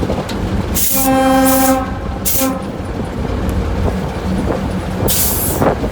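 Diesel locomotive horn sounding one longer blast, then a short one about a second later, over the steady low rumble of the locomotive's diesel engine.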